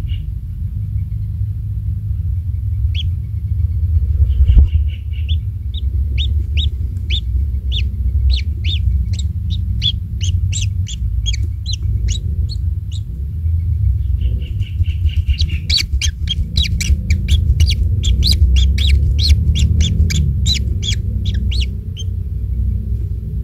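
Kingfisher calling in two runs of short, sharp, rapidly repeated notes, about three to four a second, over a steady low rumble.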